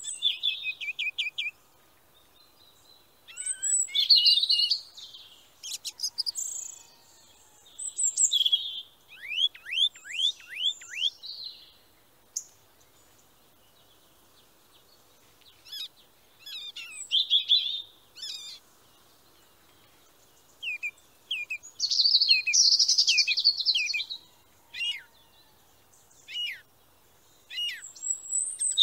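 Small birds singing: bursts of chirps, trills and quick sweeping whistled notes, separated by pauses of a second or more.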